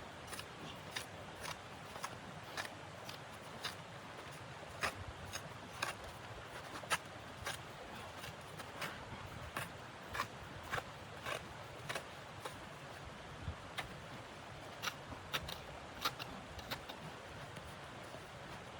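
Irregular sharp clicks and snaps, about one or two a second and varying in strength, over a steady low hiss.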